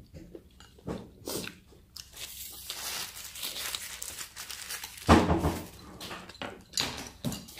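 Close-miked eating: chewing and biting on squid, with a paper napkin crinkling in the middle and a loud short burst about five seconds in.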